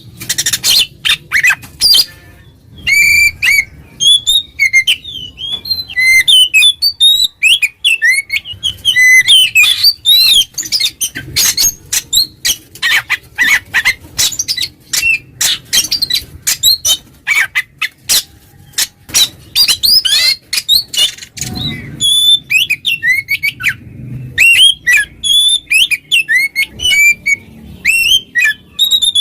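Oriental magpie-robin singing a loud, rapid, varied song without pause: whistled glides mixed with harsh, scratchy clicks and rasps. It is the full open "ngeplong" song used to call out and provoke a rival male.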